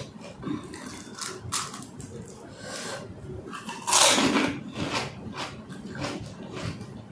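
A person eating panipuri close to the microphone: a run of short crunches and mouth sounds, with one louder noisy burst about four seconds in.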